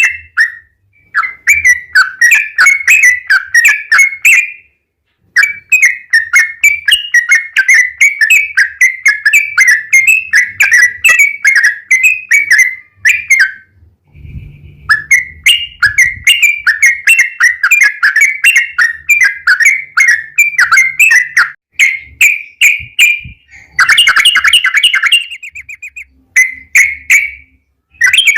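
Yellow-vented bulbul (trucukan) singing its long rolling song: runs of rapid, bubbling notes several seconds long, broken by short pauses, with a denser burst of notes near the end.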